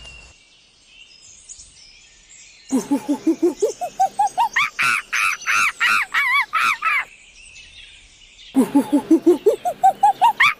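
A monkey calling: two series of whoops that start low, climb steadily in pitch and quicken into loud, high calls, each series lasting about four seconds. The first series begins nearly three seconds in.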